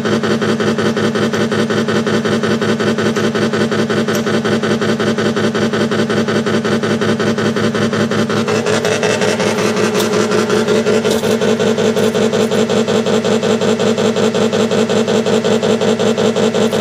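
Electronic engine sound generator in a 1/6-scale Tiger tank model, playing a simulated tank engine running with an even, rapid throb. About halfway through the sound changes, a stronger higher note coming in as if the engine speeds up.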